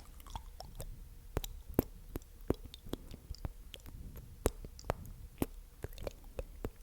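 Close-miked ASMR mouth sounds: irregular sharp, sticky clicks and smacks of the mouth, a few louder pops among softer ones.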